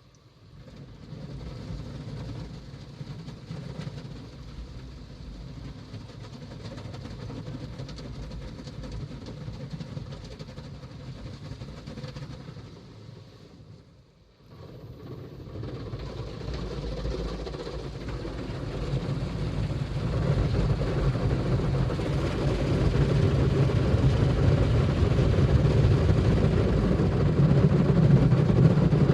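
Automatic car wash machine running, a steady noisy wash sound strongest in the low range. It fades almost out about halfway through, then builds steadily louder.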